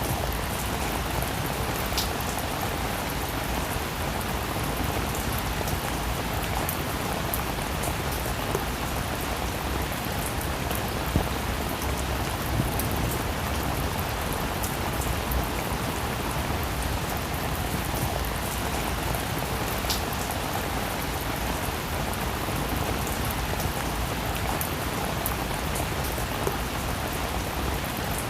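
Steady heavy rain, an even hiss with scattered drops tapping on surfaces.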